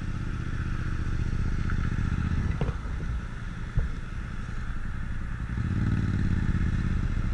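Motorcycle engine running steadily, with a low rumble that swells briefly about six seconds in and a couple of light clicks along the way.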